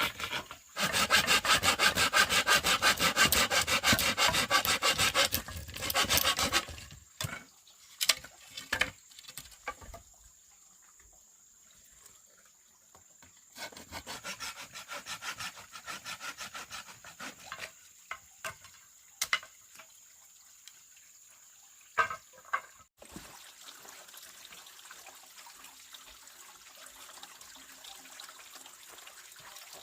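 A hand saw cutting through bamboo in rapid back-and-forth strokes for about five seconds, followed by a few knocks and then a second, quieter spell of sawing. Near the end only a soft steady hiss remains.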